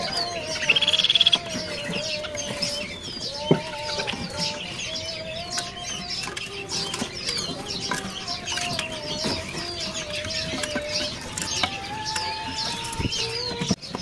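Caged kasem-kasem birds calling: a short rapid rattling call about a second in, then many quick high chirps throughout over a steady, wavering lower whistle-like tone. Scattered wing flutters and small knocks.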